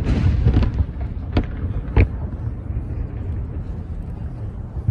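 Fireworks bursting: a bang right at the start trails off into crackling, then two more sharp bangs about a second and a half and two seconds in, over a steady low rumble.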